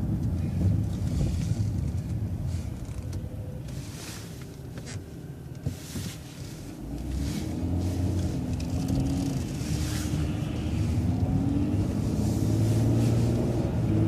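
Transit bus engine heard from inside the bus, running low and quiet while it waits and turns. From about seven seconds in it accelerates away, its pitch rising and dipping as it picks up speed, with a few scattered clicks and rattles.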